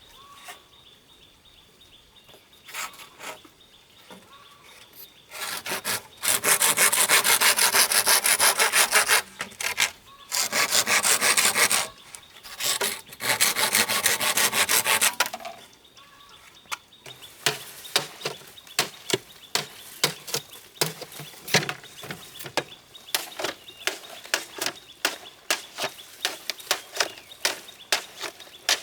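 Saw cutting through bamboo in three loud spells of quick strokes, after a quiet start. A run of light, quick taps follows.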